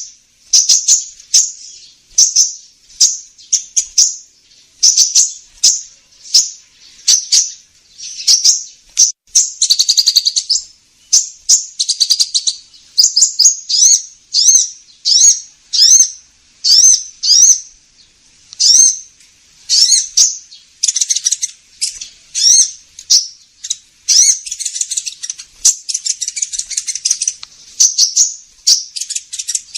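Sunbird ('kolibri ninja') call played as a bird-lure recording: sharp, high-pitched chirp phrases repeating about once a second, broken by denser trilled runs partway through and again past the middle.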